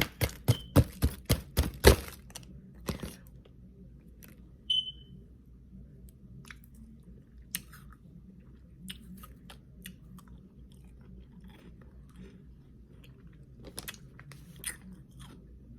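Crunching of refrozen humidifier freezer frost: a fast run of about eight sharp cracks in the first two seconds, then scattered, fainter crackles. A short high squeak about five seconds in.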